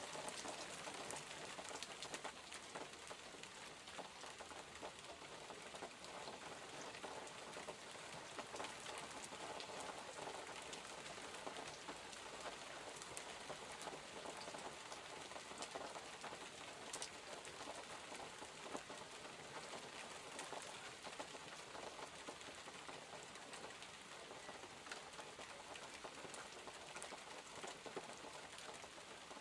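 Steady rainfall, an even hiss with many fine drop ticks throughout.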